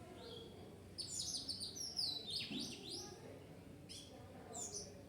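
Small birds chirping: a quick flurry of high, downward-sliding chirps about a second in, then a few more near the end.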